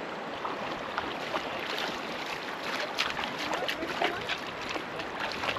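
Water splashing around a swimmer: a steady wash of moving water with many short, sharp splashes from about a second and a half in.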